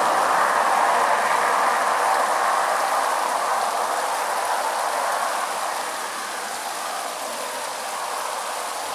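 Small seasonal waterfall splashing down rocks: a steady rushing hiss of falling water, louder in the first few seconds and then easing a little.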